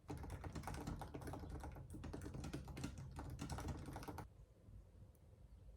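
Fast typing on a computer keyboard, a dense run of key clicks that stops about four seconds in.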